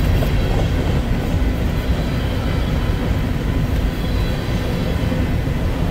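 Freight train of covered hopper cars rolling past at close range: a steady, loud low rumble of steel wheels on the rails.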